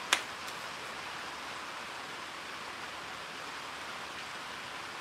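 Steady hiss of rain falling, with one sharp click just after the start.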